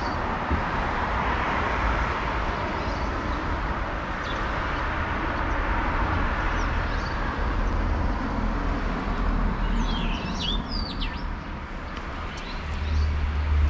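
Small songbirds chirping, a quick cluster of short high chirps about ten seconds in and a few fainter ones earlier, over a steady outdoor background of rumble and hiss.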